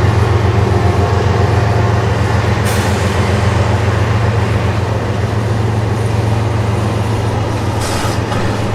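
CSX freight train passing, with a steady low diesel drone and rolling rumble that slowly fades. Two brief hisses come about three seconds in and near the end.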